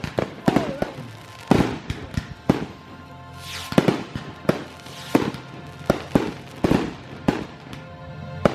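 Aerial fireworks going off in a rapid series of sharp bangs, about two a second, some close together.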